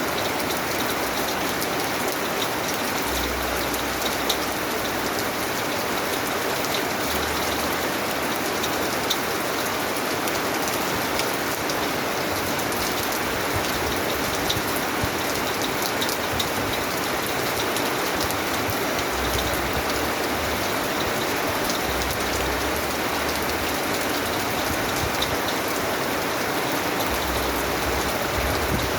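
Steady rain falling, a dense even patter with scattered sharper drops.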